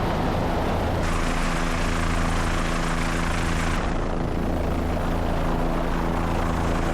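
Helicopter in flight: a steady rotor and engine drone with an even low hum.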